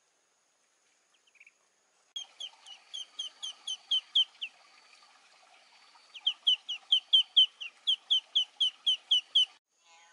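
A bird calling in two rapid runs of short descending chirps, about five or six a second. The first run starts about two seconds in, the second about six seconds in, and the chirps grow louder within each run.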